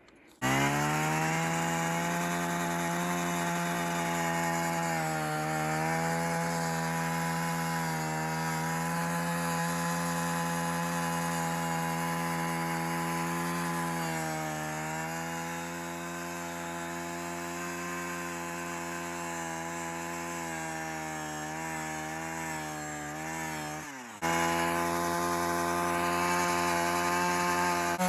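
Power ice auger running steadily while drilling through the ice, its pitch sagging briefly now and then under load. Just after twenty seconds it drops, cuts off abruptly and starts again at once.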